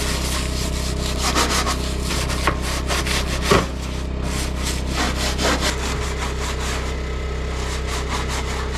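Rapid back-and-forth hand rubbing strokes on the oven's surface as it is cleaned up for painting, several strokes a second. A generator hums steadily underneath.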